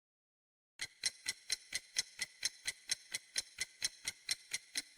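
Ticking-clock sound effect: quick, even ticks, about four a second, starting about a second in.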